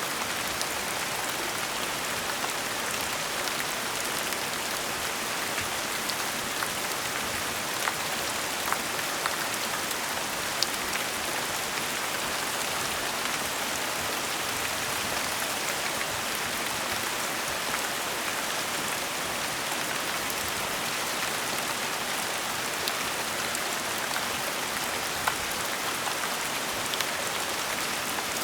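Steady gentle rain falling, an even hiss with now and then a single louder drop ticking on a surface.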